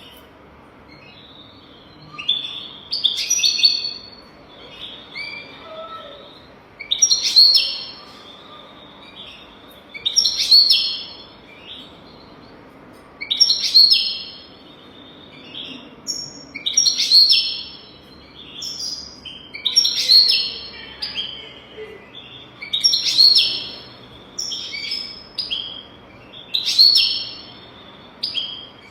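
European goldfinch singing: a loud twittering phrase about every three seconds, with softer chirps in between. This is tutor song of the kind played to young goldfinches so they learn it.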